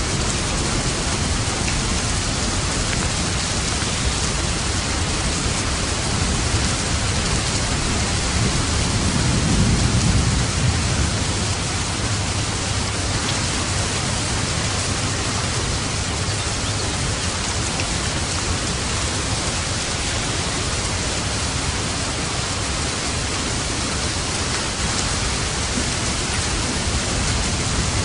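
Steady, heavy rain falling, an even hiss throughout. About a third of the way in, a low rumble of distant thunder swells and fades.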